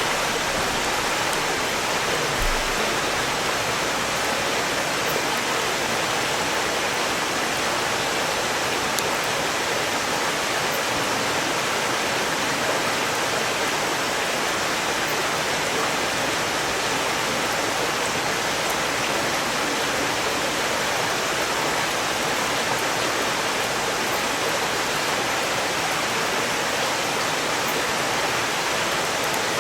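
Valley stream rushing steadily over rocks, a loud, even wash of water noise, with a few faint crackles of burning firewood.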